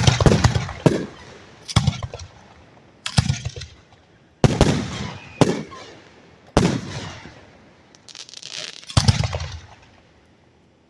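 Aerial firework shells bursting directly overhead: about eight sharp, loud bangs at irregular gaps of a second or two, each trailing off in a rolling low rumble.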